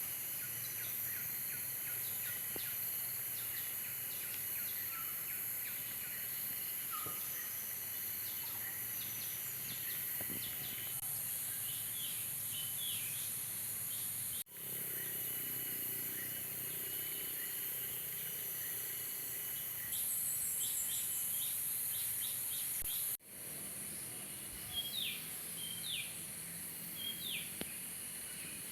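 Outdoor ambience of a steady high insect drone with many short, scattered bird chirps. The sound breaks off abruptly twice, as at an edit cut.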